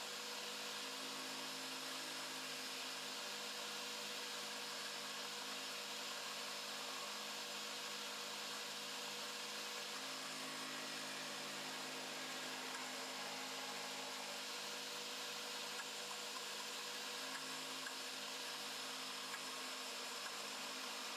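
Electric drill driving a small wood lathe, running at a steady speed with a constant whir and hum.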